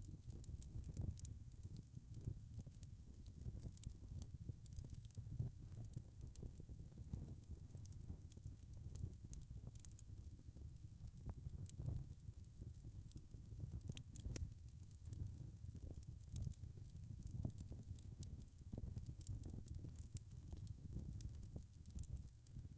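Wood fire crackling: scattered sharp snaps and pops over a low, steady rumble.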